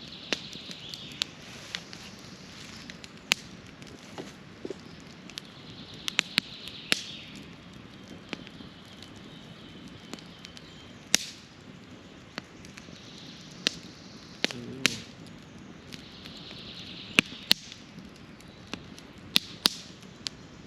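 Campfire crackling, with sharp irregular pops of burning wood every second or so over a faint hiss.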